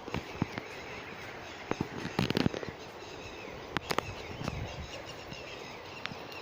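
Outdoor park ambience with faint bird chirps, broken by scattered sharp clicks and cracks, including a quick cluster of them about two seconds in.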